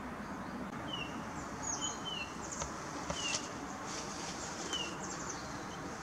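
Small songbirds giving short, falling call notes every second or so, with some thin higher notes, over a steady outdoor background hiss.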